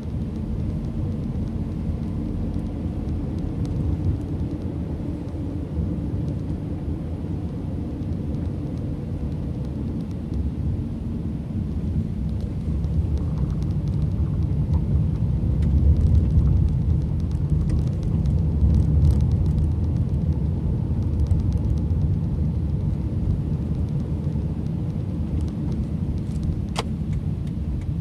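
Road noise inside a moving car: a steady low rumble of engine and tyres that swells a little in the middle, with one short click near the end.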